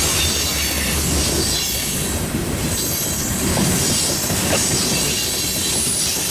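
Freight cars of a long manifest train, covered hoppers and then tank cars, rolling past at close range: steady rumble and clatter of steel wheels on the rails.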